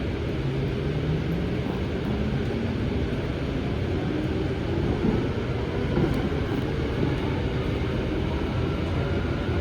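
Light rail train running, heard from inside the car: a steady rumble of wheels on the track, with a faint motor whine rising in pitch over the first few seconds as the train picks up speed.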